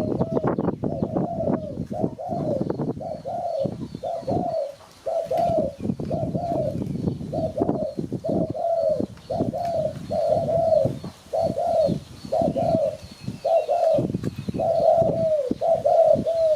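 Spotted dove cooing over and over, a long run of short, low, rounded notes at about two a second.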